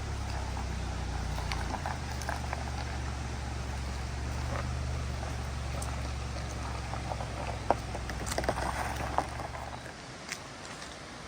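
Car engine running with a steady low hum that stops near the end, with a few sharp clicks and knocks just before it cuts out.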